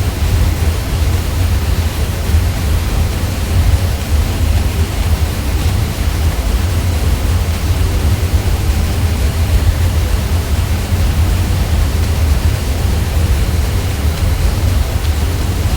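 Ceiling fan hum: a steady, unvarying deep drone with an even hiss spread over it.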